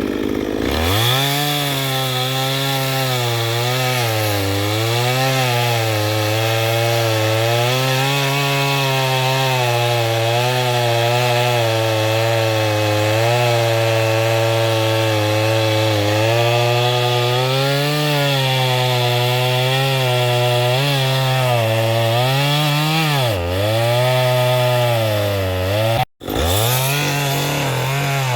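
Chainsaw running under load while cutting through a log, its engine note rising and falling as the chain bites and eases off, with a deeper dip shortly before the end. Near the end the sound breaks off for an instant, then carries on.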